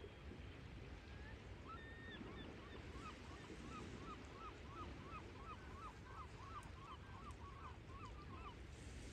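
A bird calling: a couple of longer notes, then a rapid series of short, upward-flicking calls, about three a second, over a low steady background rumble.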